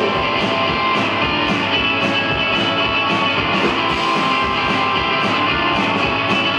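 Live rock band playing an instrumental passage, electric guitar to the fore over a steady drum beat with cymbal hits about three times a second, with no singing.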